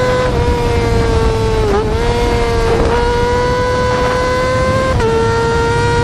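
Yamaha R6 inline-four motorcycle engine held at high revs, a steady high-pitched wail that dips briefly in pitch twice, near 2 s and again about 5 s in.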